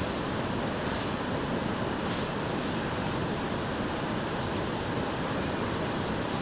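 Steady outdoor rushing noise in the woods, with a small songbird singing a quick series of high chirping notes for about two seconds, starting about a second in.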